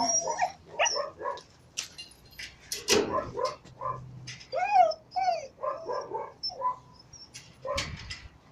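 A dog barking and yelping over and over, with a few drawn-out whining yelps in the middle: it is reacting to a rag held up to it, which the owner takes as fear of the rag.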